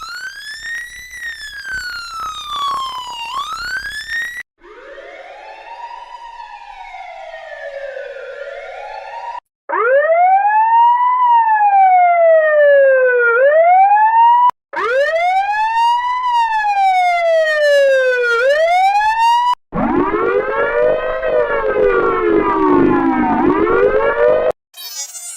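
Police car sirens, five different clips played one after another with short breaks between them; each is a wail that sweeps slowly up and down in pitch. The clips differ in pitch and loudness: the second is quieter, the third and fourth are the loudest, and the last sits lower in pitch.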